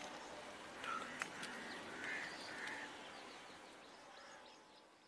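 Birds calling, several short calls with a few sharp clicks, over steady outdoor ambience. It fades out over the last couple of seconds.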